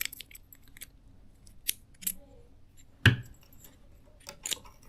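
Light clicks and small knocks of a baitcasting reel's spool being handled and fitted back into the reel body, with one sharper knock about three seconds in.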